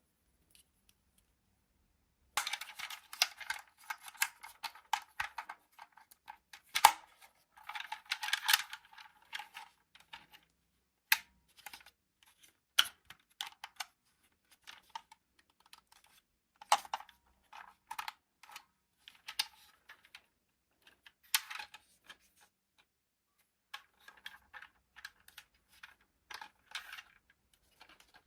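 Toy packaging being handled and opened: irregular crinkling and crackling of plastic and card with sharp clicks, starting about two seconds in, densest in two spells early on, then in shorter scattered bursts.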